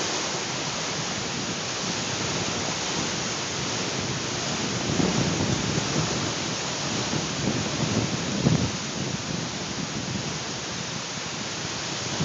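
Strong dust-storm wind blowing across the microphone: a steady rushing hiss with low buffeting gusts, heavier about halfway through and peaking in one sharp buffet a few seconds later.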